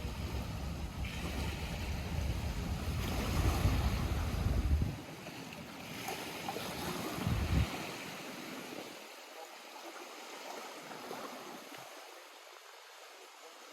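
Small lake waves lapping at the shore, a steady splashing hiss. Wind rumbles on the microphone for about the first five seconds, cuts off suddenly, and returns briefly once in the middle; the water grows softer toward the end.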